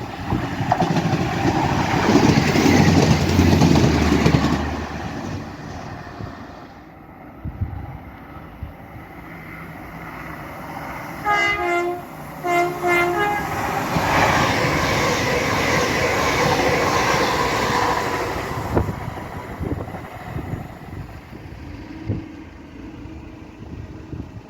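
A train rushing past at speed with a low engine hum, then a two-note train horn sounded twice in short blasts, followed by another train running past at speed.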